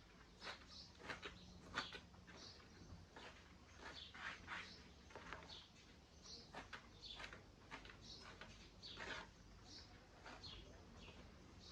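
Chickens peeping and chirping, short high calls that often fall in pitch, coming irregularly several times a second, with soft sharp taps among them.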